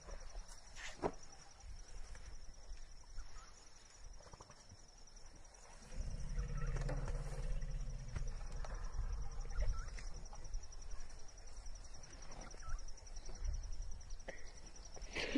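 Insects trilling steadily in a high, even pulse, like crickets, over outdoor background noise; a low rumble joins about six seconds in.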